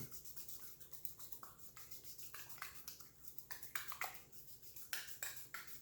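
Faint, quick, irregular rubbing and scraping strokes: an ice cube being massaged over the skin of the arm.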